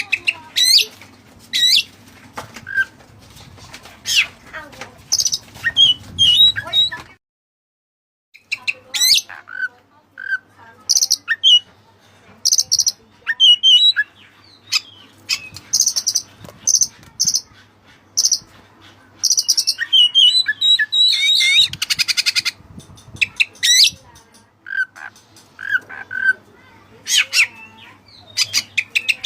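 Oriental magpie-robin (kacer) singing a varied song of rapid whistles, chirps and harsh notes, with a short break about seven seconds in and a harsh rattling call a little past the middle.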